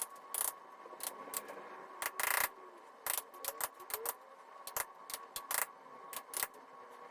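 A blade chipping and scraping at a ceiling: irregular sharp taps and short scrapes, with a longer scrape a little over two seconds in.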